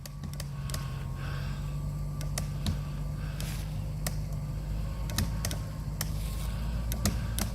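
Truck engine running steadily under load while pulling a rope tied to a tree, with scattered sharp clicks and creaks.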